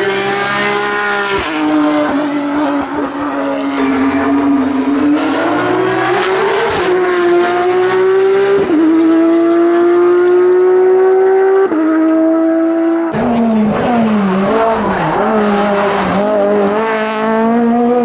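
Race car engine under hard acceleration, its pitch climbing through each gear and dropping sharply at upshifts about one and a half, eight and a half and eleven and a half seconds in. After an abrupt change about thirteen seconds in, an engine's revs rise and fall unevenly, then climb steadily again.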